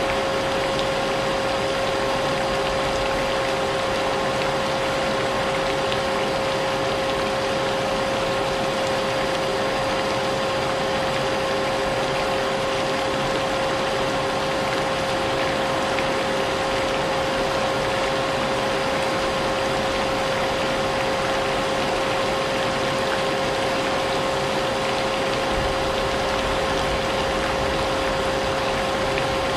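Vacuum cleaner running continuously, a steady motor whine over a broad rushing hiss, mixed with the steady wash of rain.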